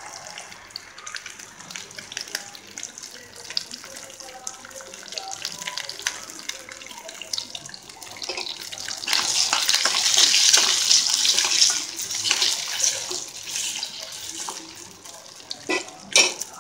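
Ice apple pieces frying in oil in a steel kadai: a crackling sizzle that swells louder for a few seconds in the middle. A couple of sharp knocks near the end.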